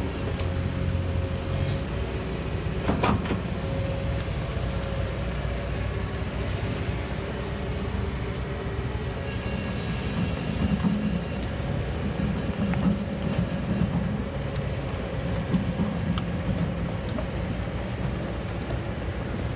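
Kobelco excavator's diesel engine running steadily under load as it works in mud, its note swelling and falling. One clank rings out about three seconds in.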